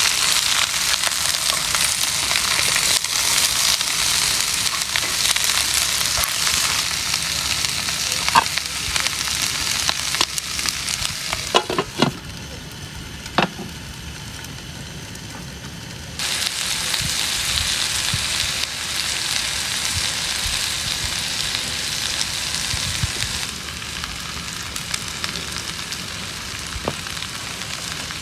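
Pork and vegetables sizzling and crackling in a wok on a portable butane gas stove, stirred with a wooden spatula. About twelve seconds in, a few clinks as the glass lid goes on, and the sizzling turns muffled; about four seconds later it comes back loud.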